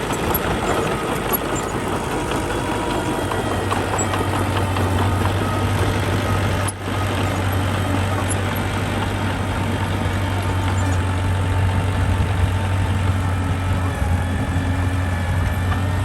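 Engine of a heavy earthmoving machine running steadily with a constant low hum, with a brief dip about seven seconds in.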